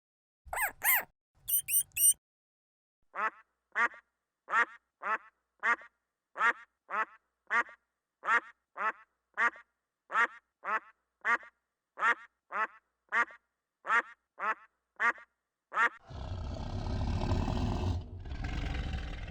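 A duck quacking in a long, evenly paced series, about two quacks a second. It is preceded by a few sharp, high squeaks, and near the end a deep, rasping roar-like call from a large animal comes in twice.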